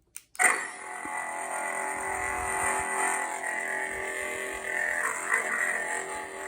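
Lightsaber prop's Crystal Focus X sound board: a click, then the blade ignition sound starting suddenly about half a second in and settling into a steady electric hum, with a brief swell about five seconds in.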